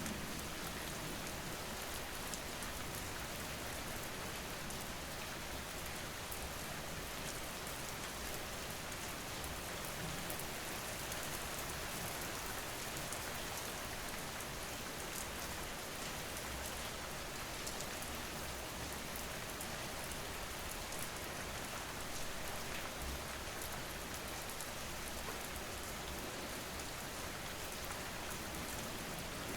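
Steady rain falling, an even continuous hiss of raindrops on surfaces.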